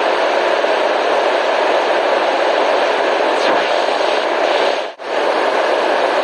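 Steady white noise played for relaxation, an even hiss with no rhythm or tone. It drops out for a split second about five seconds in.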